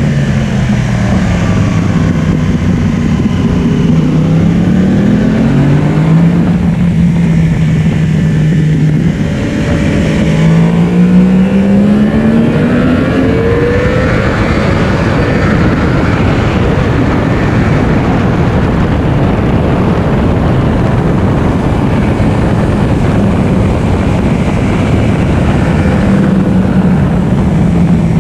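Yamaha R1 inline-four sport bike engine pulling hard, its pitch rising twice as it accelerates through the gears. Heavy wind rush at speed, which covers most of the engine sound in the second half.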